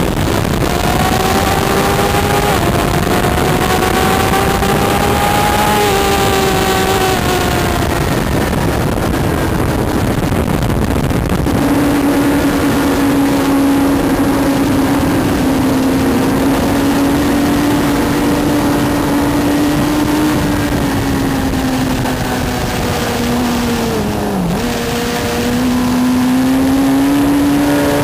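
Onboard sound of a 2008 Suzuki GSX-R1000's inline-four engine at speed on track, under heavy wind rush on the microphone. The engine note climbs with a step early on, holds a long steady pitch through the middle, sags with a brief dip near the end, then climbs again.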